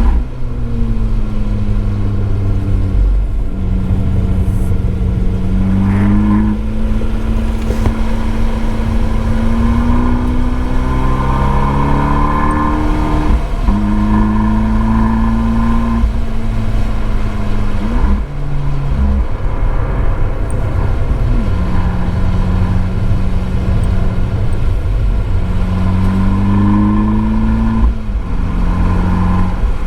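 Abarth 595 Esseesse's turbocharged 1.4-litre four-cylinder running hard through an Akrapovic exhaust on track. The engine note climbs and then drops again and again as it shifts gear.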